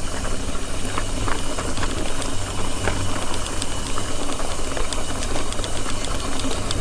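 Mountain bike rolling over rough ground: a steady rumble of tyre and wind noise with scattered clicks and rattles.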